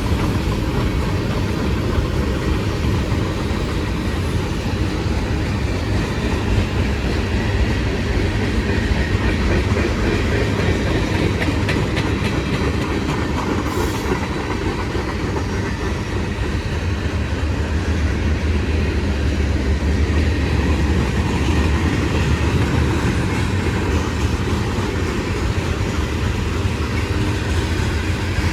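CSX freight train rolling past: a steady rumble of wheels on the rails, with rapid clicking of wheels over rail joints.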